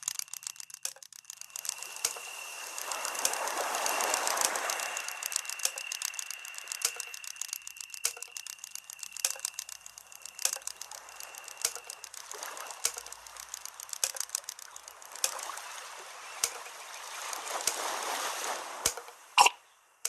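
Sea waves washing onto the shore, the surf swelling to a peak about four seconds in, ebbing, and swelling again near the end, with many short clicks throughout.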